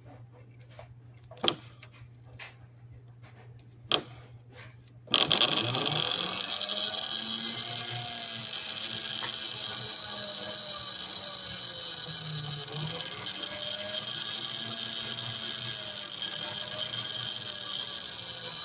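Freshly cleaned Lionel 253 toy-train motor on its first test run: after a low hum and two sharp clicks it starts about five seconds in and runs with a steady whirring whine, its speed rising and falling and dipping once about halfway through.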